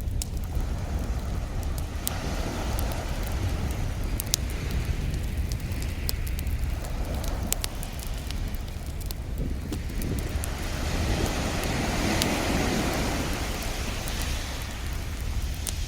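Wood fire crackling with scattered sharp pops over ocean waves washing in, swelling and fading several times, the biggest surge about eleven seconds in, with a steady low rumble beneath.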